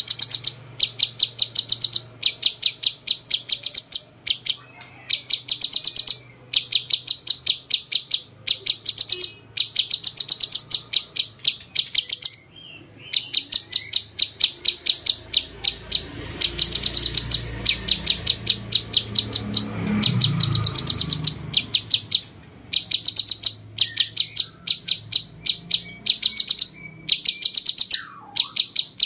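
A cucak cungkok singing its masteran song, described as sounding like a cucak jenggot: rapid runs of sharp, evenly repeated high notes, each run about a second long, broken by short pauses and repeated over and over.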